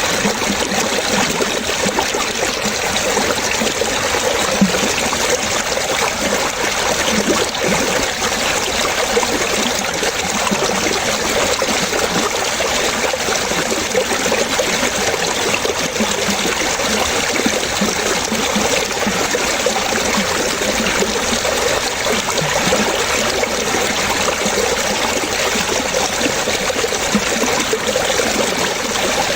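Water trickling and splashing steadily, like a small stream or brook running over stones.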